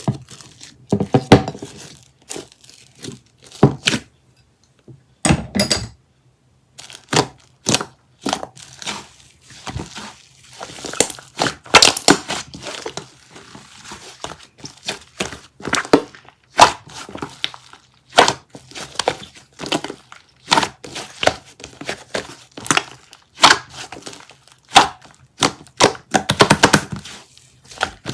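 Slime being squeezed, pressed and poked by hand, giving an irregular run of sharp clicks, pops and crackles, with a short pause a few seconds in.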